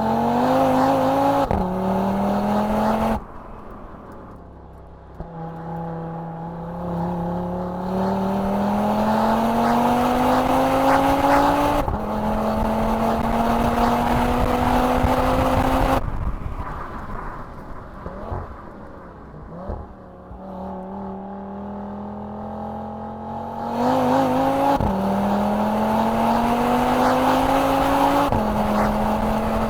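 Audi RS3's 2.5-litre turbocharged five-cylinder engine accelerating hard through the gears. Its pitch climbs with each pull and drops sharply at every upshift. It eases off twice in between before pulling again.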